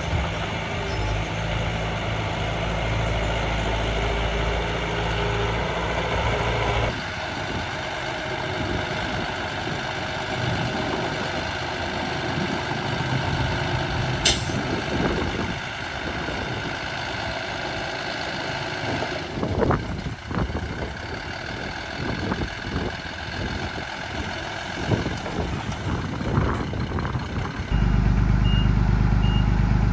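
Miniature RC dump truck and bulldozer running with a truck-engine sound, with scattered clicks and knocks in the middle. Near the end a heavier engine note comes in with a regular high reversing beep.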